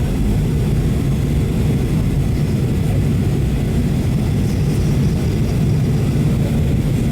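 Steady low drone inside the cabin of a Boeing 737-800 in flight, with engine and airflow noise at an even level throughout.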